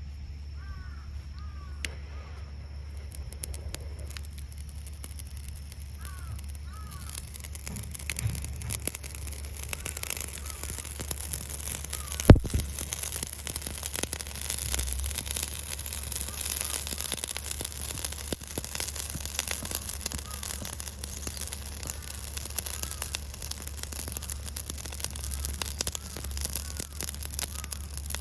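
Crows cawing a few times early on. From about seven seconds in, a small fire burns in a titanium box stove with a steady crackling hiss and many small pops, and there is one sharp knock about twelve seconds in.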